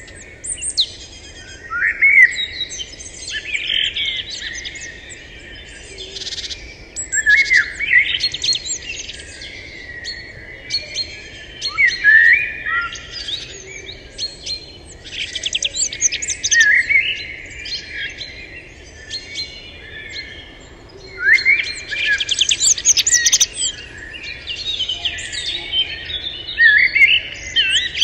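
Songbirds singing and chirping, with short rising, trilling phrases in overlapping bursts every second or two.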